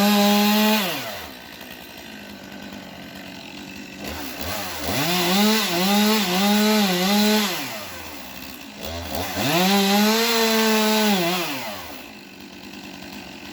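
Chainsaw engine revved up to high speed three times, each run held for a second or a few seconds, dropping back to idle in between.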